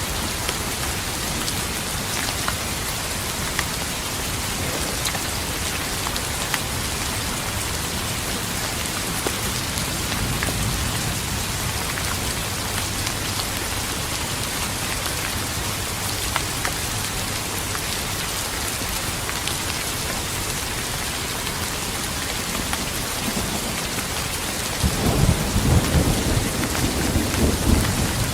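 Steady rain with scattered drop ticks; near the end a low rumble of thunder breaks in suddenly and grows, becoming the loudest sound.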